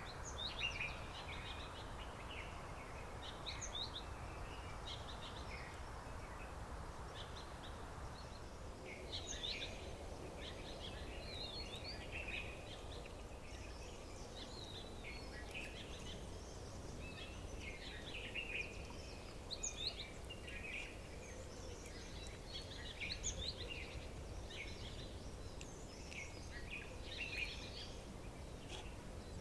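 Many small birds chirping and trilling in short, overlapping high calls over a steady low background hum, with a soft hiss under the first eight seconds or so that fades out.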